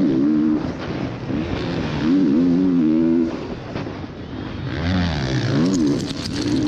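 Motocross bike engines revving hard, the pitch climbing and dropping about once a second as the throttle is worked. Near the end a deeper-pitched bike dips low and climbs again, with a short burst of sharp crackles.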